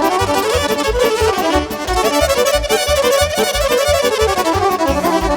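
Live Romanian party band playing an instrumental interlude between sung verses: a violin and accordion lead a quick dance melody over a steady bass beat.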